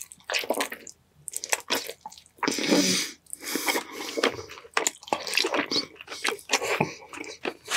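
Close-miked chewing and mouth sounds of eating sauce-covered chicken drumsticks: a quick, irregular run of wet, sticky smacks and clicks, with a longer wet squelching noise about two and a half seconds in.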